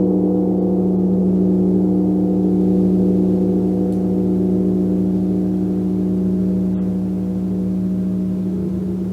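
Gong humming continuously: a dense, wavering drone of several held tones, strongest low down, with no separate strikes standing out.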